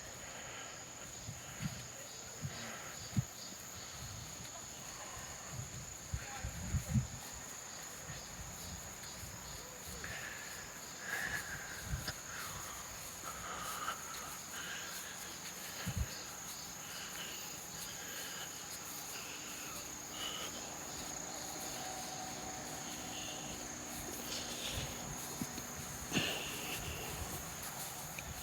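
Insects in the forest keep up a steady high-pitched chorus, with a few soft low thumps scattered through it.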